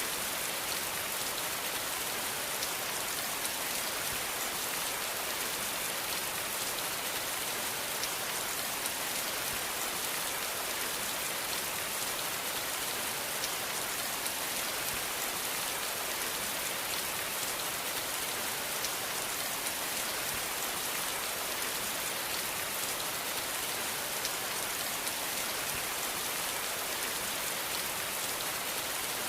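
Steady rain falling, a dense even hiss of many small drops pattering on a surface, with no thunder and no change in strength.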